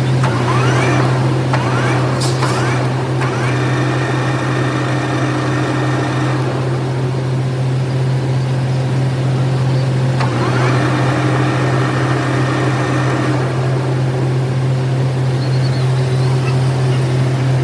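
Machinery running with a loud steady hum. Twice, about a fifth of a second in and again about ten seconds in, a motor spins up with a rising whine and then runs on at a steady pitch for a few seconds.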